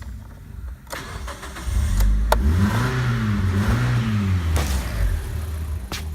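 Mitsubishi 4G93 1.8 GDI inline-four petrol engine running in the car. It is revved up and back down twice, then settles to a steady idle. A couple of sharp clicks can be heard along the way.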